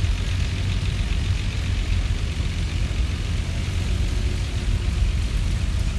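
Antique tractor engine running steadily.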